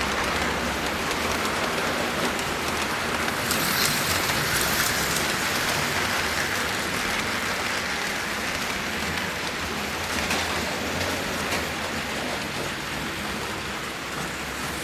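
HO-scale Auto World Thunderjet slot cars running laps on the track: a steady hiss and whir of small electric motors and tyres on the plastic track, swelling briefly about four seconds in as a car passes close.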